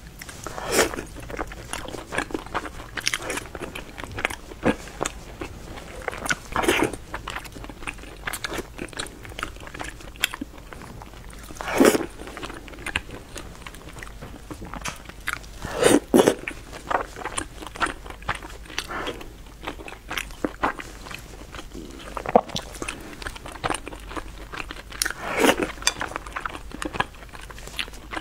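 Close-miked eating of soft glutinous rice balls in syrup: steady chewing and wet mouth clicks, with a louder short burst of mouth noise every few seconds.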